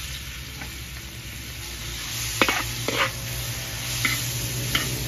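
Pork pieces sizzling in hot oil with garlic in a large metal wok, stirred with a metal spatula. The sizzle grows louder about two seconds in, and the spatula scrapes and clicks sharply against the wok four times in the second half.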